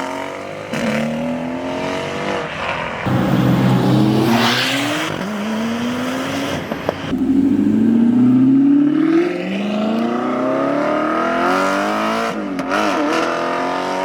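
A car engine accelerating hard away, its pitch climbing and dropping back at each upshift, five or six times in a row, with a wavering rev near the end.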